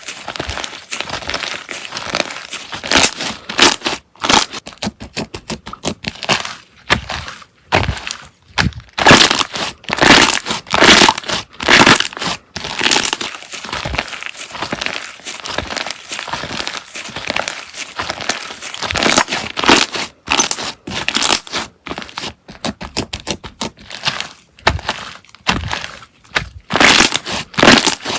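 Slime being squeezed and pressed by hand, making dense runs of wet crackling and popping that come in waves.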